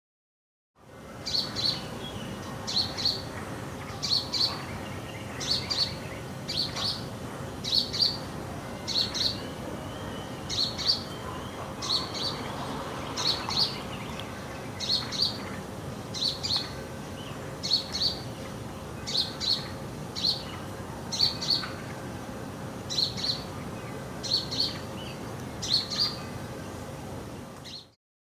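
A sparrow chirping over and over, a short sharp chirp, often doubled, about every second and a half, over a faint steady background hum.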